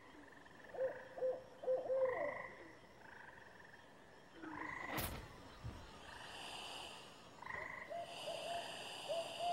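Night swamp chorus of frogs calling, with short repeated notes, and a few lower wavering calls about a second in. A single sharp click about halfway through.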